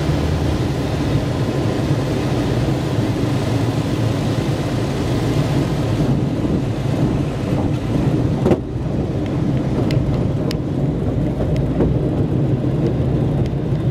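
Light aircraft's propeller engine droning steadily inside the cabin, with a rush of air noise during the landing that eases off about halfway through. A few sharp knocks are heard around the middle.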